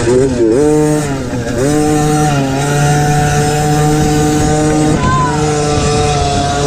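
Small mini motocross bike engine at racing revs: the pitch dips twice in the first two seconds as the throttle is eased and reopened, then holds steady and high.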